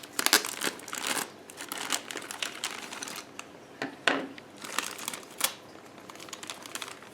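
Plastic packaging crinkling and rustling, with light clicks of small plastic toy pieces being handled.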